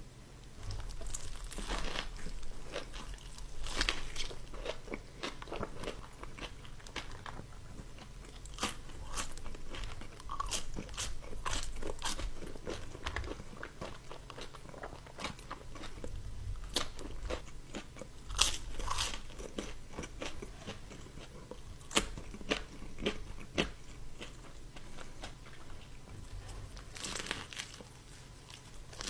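A person biting and chewing crispy fried chicken: repeated sharp crunches of the breading, irregular and closely spaced, with chewing in between.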